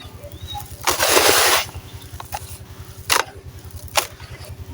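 Dry, gritty sand-cement crumbling: one crunch lasting under a second about a second in, then a few short sharp cracks.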